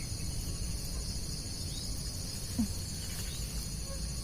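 Steady high-pitched chorus of insects, such as crickets, over a low rumble, with one short soft knock about two and a half seconds in.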